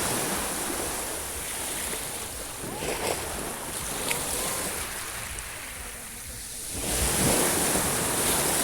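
Sea waves washing onto the shore in swells, the loudest wave coming in about seven seconds in.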